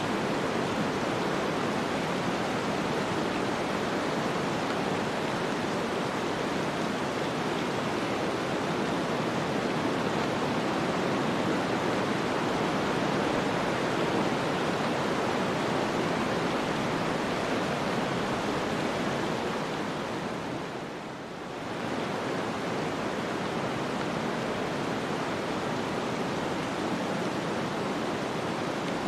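Steady hiss of snowstorm wind, even and without gusts or clicks, easing briefly about two-thirds of the way through before returning to the same level.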